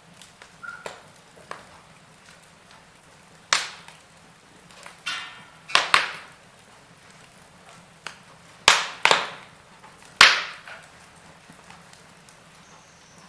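Wood fire crackling in a fireplace: irregular sharp pops and snaps from the burning wood over a low steady hiss, with the loudest pops about three and a half, eight and a half and ten seconds in.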